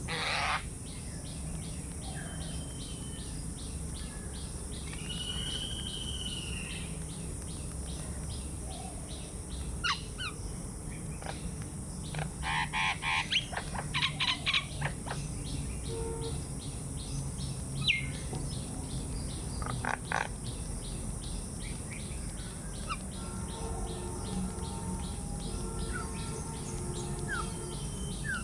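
Wild birds chirping and calling in scattered short calls, loudest in a run of rapid repeated calls about halfway through, over a steady high buzz with fast, even ticking.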